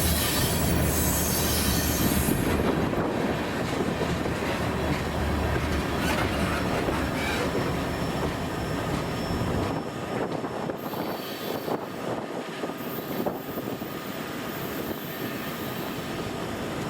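Freight train rolling past, its wheels clicking over the rails with some wheel squeal. The low rumble drops away about ten seconds in, leaving a quieter rolling sound.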